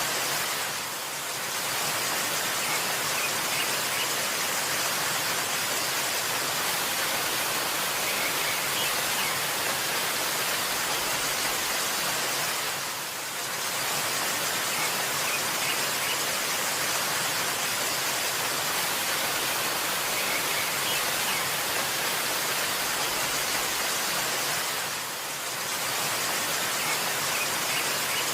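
Steady rushing of a waterfall, dipping briefly in level three times about twelve seconds apart, with a few faint bird chirps.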